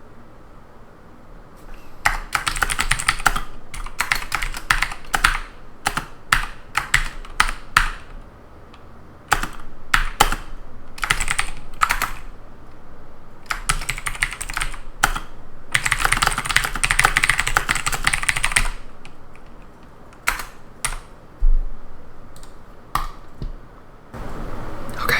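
Typing on a computer keyboard in bursts of rapid key clicks with short pauses, starting about two seconds in. The runs thin out to a few single clicks near the end.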